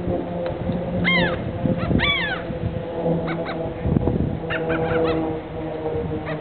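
Birds crowding in to be hand-fed, calling: two sharp downward-sliding calls about a second apart near the start, then a run of shorter calls in the middle, over a steady low hum.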